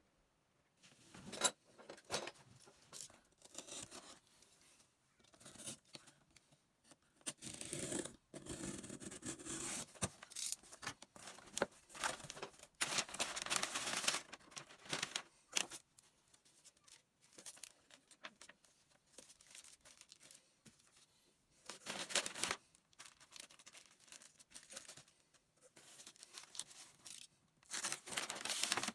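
Packaging being torn and crumpled in irregular rustling bursts, loudest for several seconds in the middle and again in short spells later.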